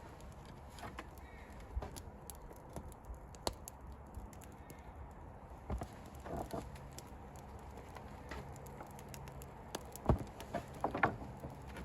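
Wooden boards knocking against one another as they are laid onto a stack, with scattered light clicks and a few louder knocks, the loudest near the end.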